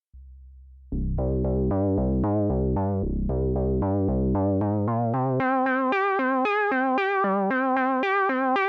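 GForce Minimonsta 2, a software emulation of the Minimoog synthesizer, playing a patch from its preset bank. A low tone sounds first, then from about a second in a quick run of short notes with vibrato, about four a second, shifts to a higher register about five seconds in.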